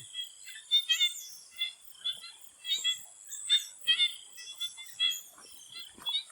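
A swamp frog chorus: many frogs giving short, repeated calls that overlap, several a second, over a steady high-pitched drone of insects.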